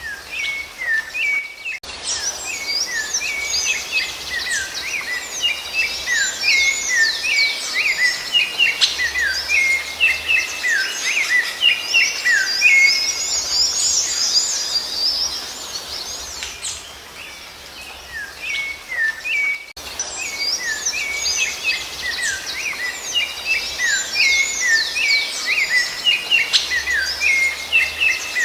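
Birdsong: a dense stream of quick chirps and whistles, some sliding down in pitch. It starts about two seconds in, stops for an instant about twenty seconds in, then goes on.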